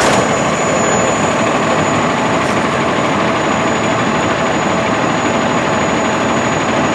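A vehicle engine idling, steady throughout, with a faint constant high whine above it.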